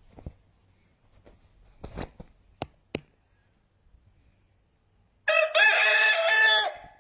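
A rooster crowing once, a single call of about a second and a half near the end, after a few faint clicks and knocks.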